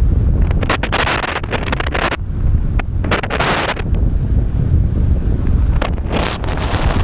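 Airflow rushing over the microphone of a paraglider pilot in a spiral dive: a constant low rumble with three hissing surges of wind.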